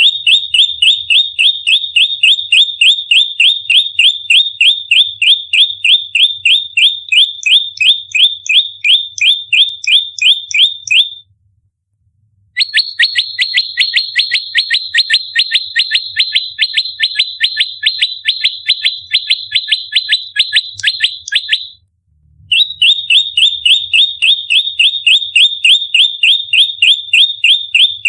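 A prenjak lumut giving its rapid-fire fighting call (tarung, nembak rapat): a fast, even string of sharp, high, downward-sweeping chirps, about four a second. The call comes in three long bouts with brief pauses about 11 seconds and 22 seconds in.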